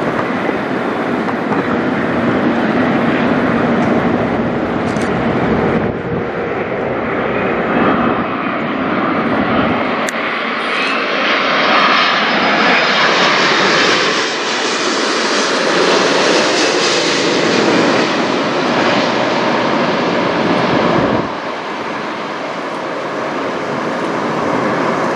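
Air Canada Boeing 787-9 Dreamliner's twin jet engines passing overhead: a steady jet rush that builds to its loudest about halfway through, with a faint whine sliding down in pitch as it goes by. The level drops off suddenly near the end.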